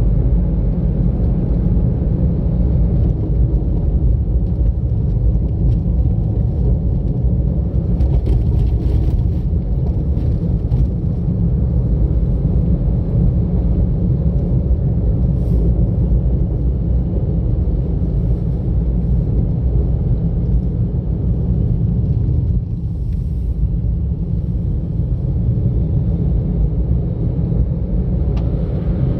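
Steady low rumble of a car being driven, road and engine noise heard from inside the cabin, with a few faint clicks.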